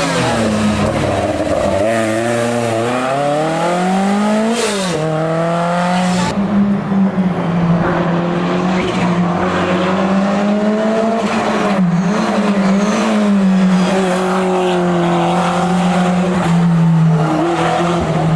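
Historic rally car engine under hard acceleration: the pitch rises, drops sharply at a gearshift about five seconds in, then holds at steady high revs with brief dips.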